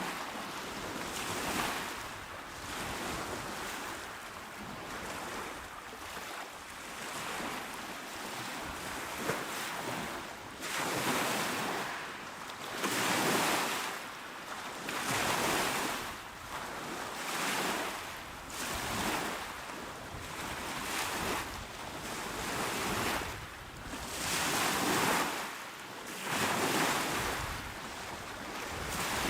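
Small, calm waves washing onto a shore, one surge of surf every two seconds or so, each swelling and fading, more distinct in the second half.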